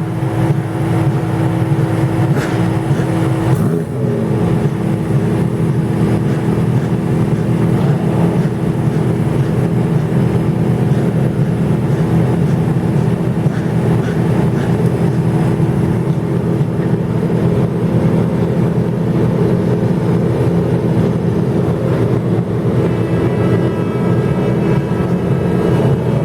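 Race car engines running at a steady, low speed in the pit lane, their pitch held nearly level with a brief change about four seconds in.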